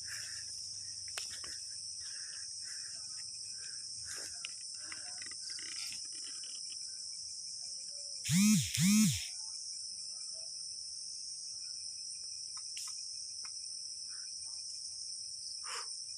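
Steady high-pitched chorus of crickets and other night insects. About halfway through come two short, loud pitched calls in quick succession, each rising and then falling in pitch.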